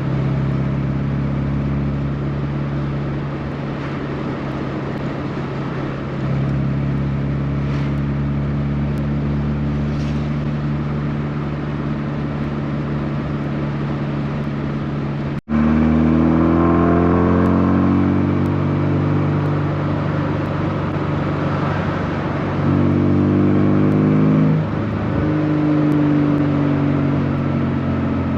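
Rover Mini's four-cylinder engine running while driving, at a fairly steady note at first. About halfway in, after a brief break, the engine note climbs as the car accelerates, with a louder pull near the end.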